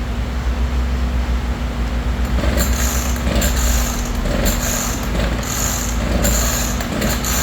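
Echo gas chainsaw's recoil starter rope pulled again and again, about once a second, starting about two and a half seconds in, the engine turning over without catching.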